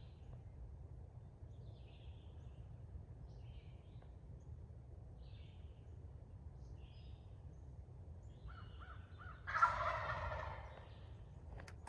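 An eastern wild turkey gobbling once, a rattling call of about a second near the end, with a quick run of four short notes just before it. Faint small-bird chirps sound throughout.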